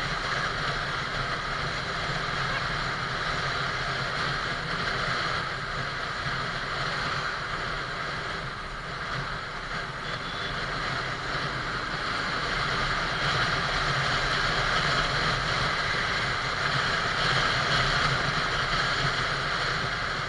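Riding noise from a moving motorcycle: steady wind rush over the microphone with the engine's low hum beneath, swelling a little louder in the second half.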